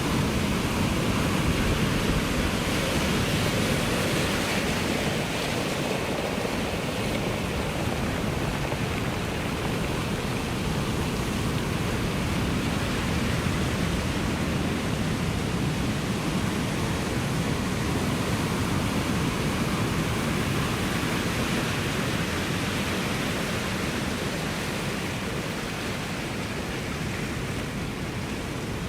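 Ocean waves breaking and washing on the shore, heard as a continuous rushing hiss that swells and eases only slightly.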